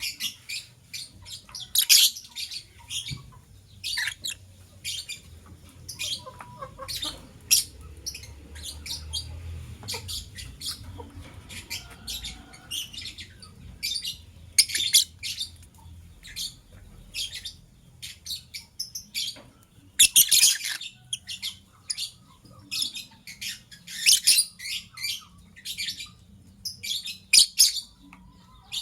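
Lovebirds, a blue opaline and a masked lovebird, chirping: a busy, irregular run of short, high-pitched chirps with several louder bouts of chatter.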